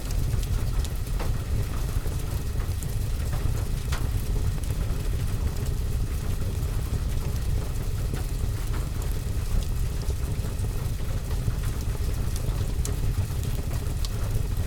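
Steady rain on a roof and window with a fireplace fire, under a constant deep rumble, with scattered light ticks.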